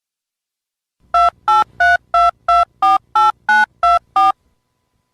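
Telephone keypad touch tones dialing a number: ten short two-tone beeps, about three a second, starting about a second in.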